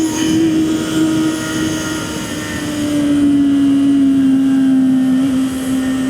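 Honda CB650R's inline-four engine running steadily while riding, its pitch easing slowly downward as the revs drop.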